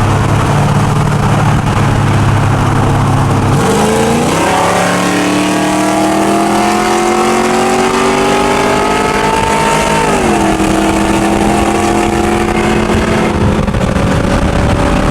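A V8 truck engine under hard acceleration: a steady low drone, then about three and a half seconds in the engine note climbs steadily for about six seconds, drops sharply and holds at a lower steady pitch.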